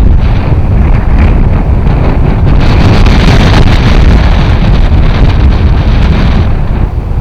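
Strong wind buffeting the microphone: loud, gusty rumbling that masks everything else, easing a little near the end.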